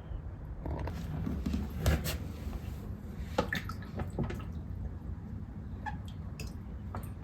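Frogs moving in shallow water in a warm-bath tank: scattered small splashes, drips and light clicks against the tub, the sharpest about two seconds in.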